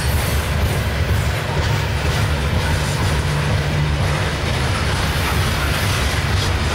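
Coal hopper cars of a freight train rolling past on the track: a steady low rumble with the clicking and rattle of steel wheels over the rails.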